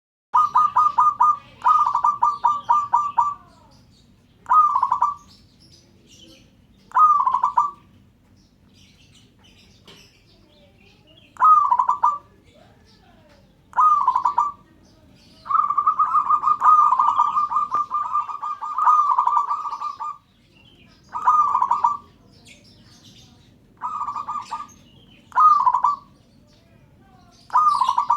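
Zebra dove (perkutut) cooing: repeated phrases of rapid staccato coo notes, with one long unbroken run of calls in the middle.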